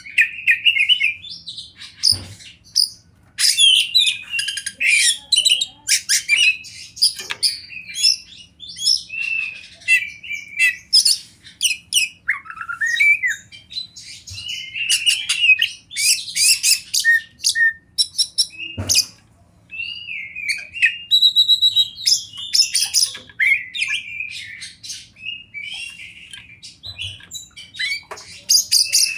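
Oriental magpie-robin (kacer) singing a rapid, varied song of whistled phrases, chirps and harsh scratchy notes, broken by brief pauses.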